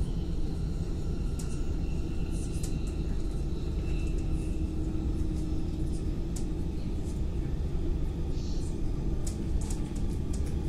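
Steady low rumble of a moving passenger train, heard inside the carriage, with scattered sharp clicks.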